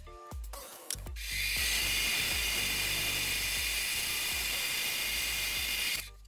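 A power tool running steadily with a high-pitched whirring noise, starting about a second in and stopping shortly before the end.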